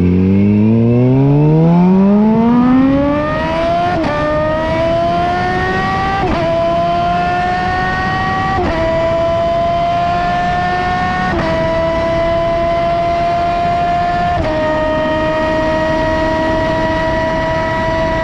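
Kawasaki Z H2's supercharged inline-four, breathing through a Leo Vince LV Pro muffler, accelerating hard with a steeply rising pitch. It then makes five quick clutchless quickshifter upshifts, each a brief dip in pitch. The revs climb more slowly in each higher gear and hold nearly steady after the last shift.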